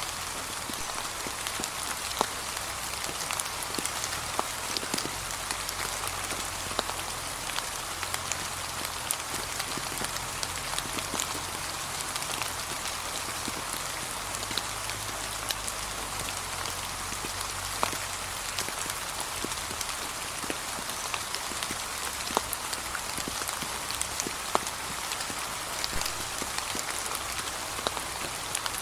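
Steady gentle rain falling on a surface, a constant patter with scattered sharper drop taps.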